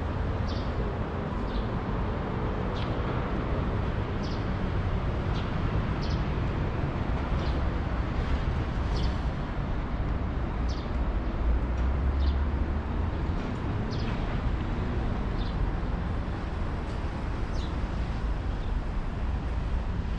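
A small bird chirping over and over, short high chirps roughly once a second, over a steady low rumble of city traffic.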